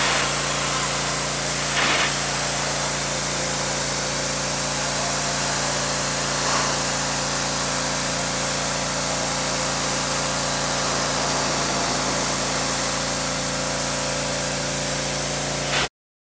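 Pressure washer running and spraying steadily: a continuous hiss of spray over a steady motor hum, which cuts off abruptly near the end.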